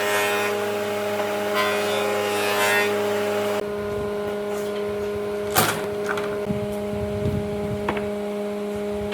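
A workshop power tool runs and cuts off about three and a half seconds in, leaving a steady machine hum. Scattered knocks and clicks of wood being handled follow, the sharpest about five and a half seconds in.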